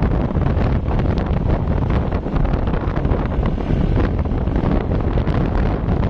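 Wind buffeting the microphone: a loud, steady low rumble that flutters rapidly.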